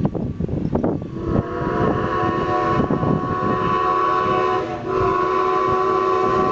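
Steam whistle of Strasburg Rail Road 2-10-0 decapod No. 90 blowing a long chord, coming in about a second in, with a brief break just before five seconds and then sounding on. Exhaust chuffs are heard just before the whistle starts.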